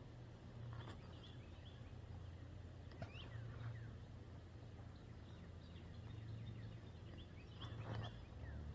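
Small birds giving short chirps now and then, in a few clusters, over a low steady background hum.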